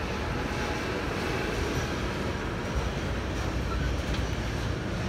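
Electric-hauled intermodal freight train rolling past, its wagons carrying lorry trailers, with the wheels making a steady noise on the track.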